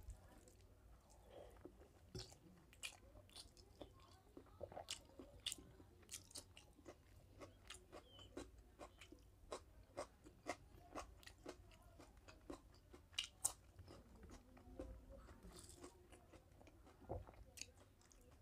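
Faint close-up eating sounds of rice and mutton curry eaten by hand: a steady run of small wet mouth clicks, chewing and crunches, with a few louder ones now and then.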